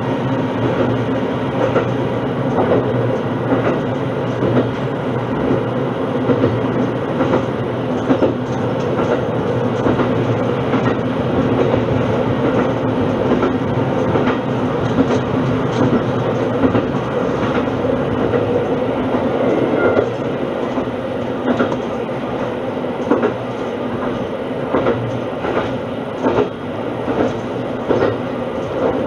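Shimabara Railway diesel railcar running along the line, heard from inside: a steady engine and running hum, with the wheels clicking over rail joints, more often in the second half.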